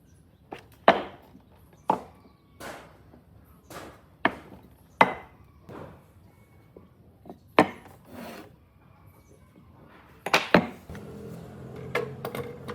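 Sharp wooden knocks, about a dozen at irregular intervals of roughly a second, as pieces of wood are struck or set down in woodworking. Near the end a steady low hum starts up.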